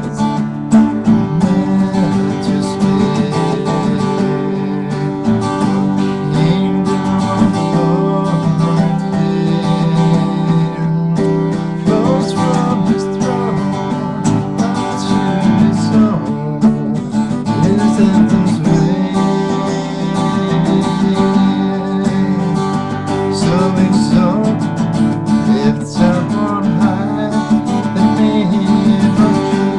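Acoustic guitar strummed, playing chords at a steady level.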